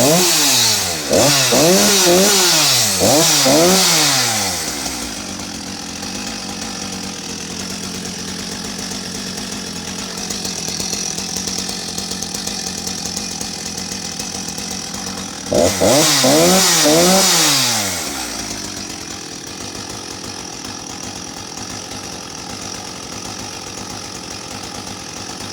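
Husqvarna 254 two-stroke chainsaw blipped to full revs several times in quick succession, each time climbing instantly and dropping straight back to idle. It then idles steadily, gets another short run of blips about 16 seconds in, and settles back to idle. Its quick rise to peak revs and fast return to idle mark a crisp, healthy high-compression saw.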